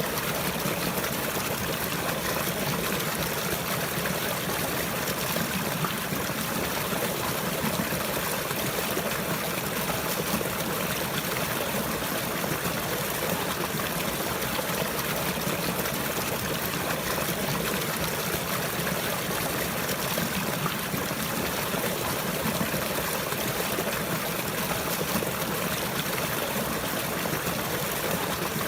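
Water flowing steadily, an even, unbroken rush with no pauses or changes.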